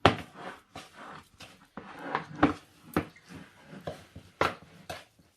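A grated potato, egg and corn flour mixture being mixed in a bowl, with irregular knocks and scrapes several times a second.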